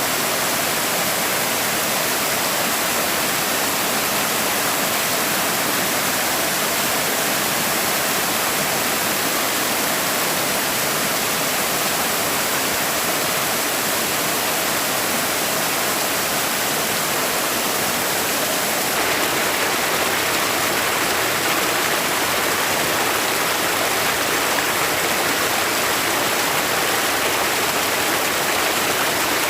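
Forest stream flowing over rocks in a steady rush of water, with no other sounds standing out.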